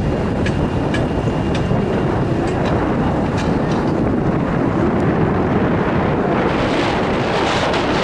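Gale-force wind buffeting the microphone in a steady, loud roar, with a few faint clicks in the first half and a brighter hiss swelling about six seconds in.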